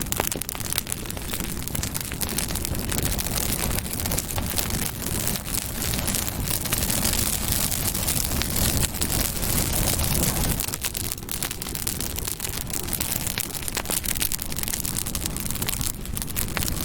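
Campfire burning, with frequent sharp crackles and pops over a steady hiss of flames.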